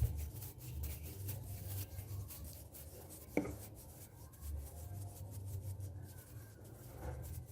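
Close-miked ASMR hand sounds: hands rubbing and moving in front of the microphone, a dense fine crackle over a low handling rumble, with one sharp tap or click about three and a half seconds in.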